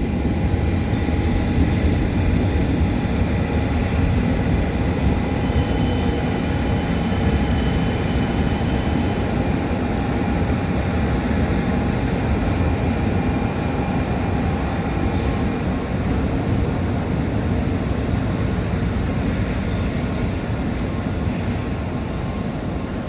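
Shinkansen train pulling into a station at speed: a continuous rumble of wheels and running gear with steady whining tones, easing off gradually. A high-pitched squeal comes in about nineteen seconds in as the train slows.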